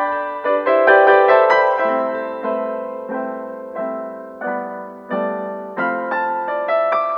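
Background piano music: slow, gentle notes and chords struck one after another, each ringing and fading before the next.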